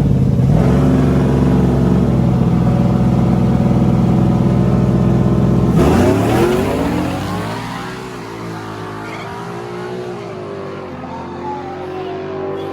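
A car engine running loud at high, steady revs. About six seconds in, its pitch falls sharply and it fades, leaving a quieter engine whose revs rise and fall.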